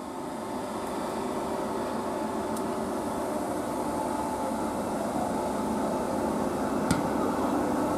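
Class 769 Flex tri-mode multiple unit moving through the platform, a steady hum and running noise from the unit growing louder as the carriages pass close by. Two sharp clicks come about two and a half seconds in and again near the end.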